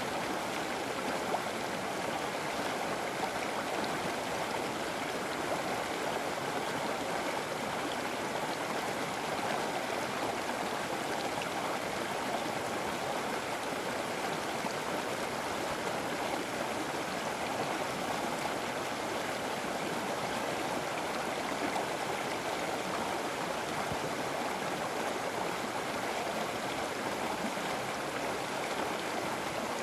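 River water flowing and rushing over rocks: a steady, even noise with no breaks.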